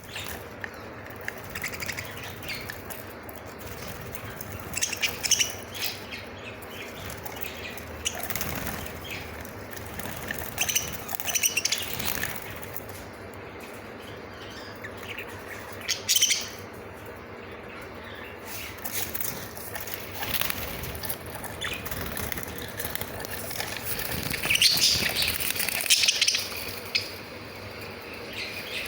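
A cage of budgerigars chirping and chattering, with wing flaps and fluttering, in scattered bursts of short high calls.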